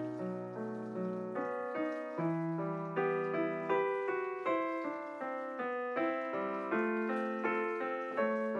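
Background piano music: single notes and chords struck about twice a second, each left to ring and fade.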